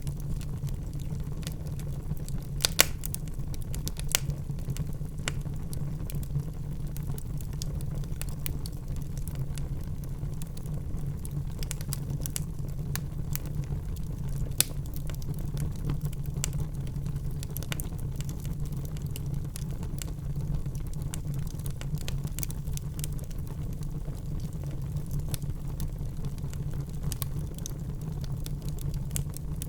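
Wood fire burning in a fireplace: a steady low rumble of the flames with irregular sharp crackles and pops from the logs, a few louder snaps now and then.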